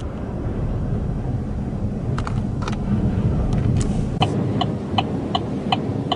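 Steady low rumble of a truck cab on the road. A few scattered clicks come about two seconds in, then a rapid regular pitched ticking, about three a second, starts about four seconds in.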